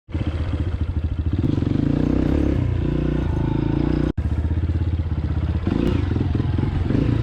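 Dirt bike engine running with a rapid firing pulse, loud and fairly steady in pitch. It cuts out for an instant about four seconds in and then carries on.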